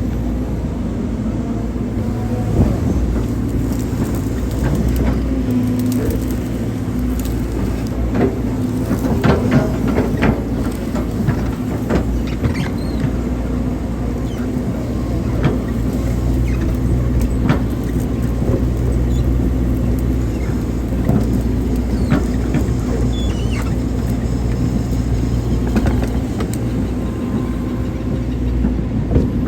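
Hydraulic excavator's diesel engine running steadily, with scattered knocks and clicks from the machine working.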